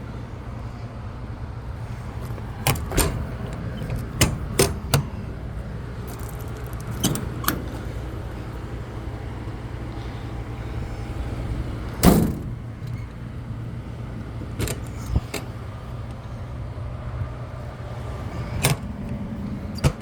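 Gas Ford F450 truck engine idling with a steady low hum. Sharp metal clicks and knocks come over it about a dozen times, the loudest one about twelve seconds in.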